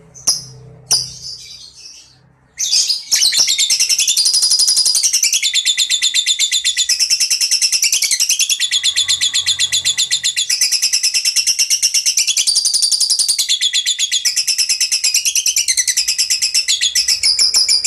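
Songbird singing: a couple of short chirps, then from about two and a half seconds in a long, unbroken, fast chattering trill of rapidly repeated high notes that steps up and down in pitch, stopping abruptly at the end.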